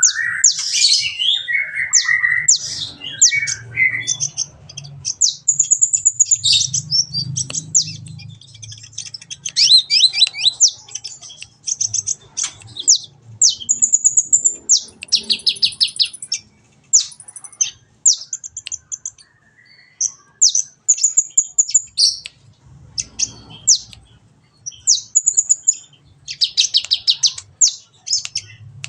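A kolibri ninja sunbird singing a fast, high-pitched run of thin chirps, sweeps and rapid rattling trills with almost no pauses, as on a masteran training recording.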